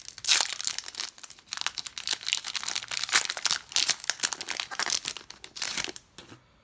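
Plastic wrapping crinkling and tearing as a trading-card blaster box is unwrapped and opened, in quick irregular crackles that die down near the end.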